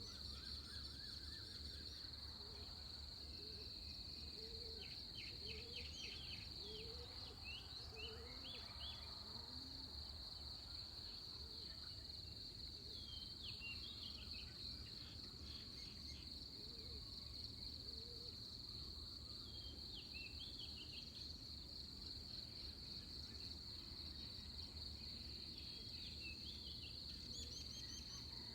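Dawn chorus over a steady, high-pitched insect drone of crickets. Birds chirp in short clusters every few seconds, and short low rising calls repeat during the first half.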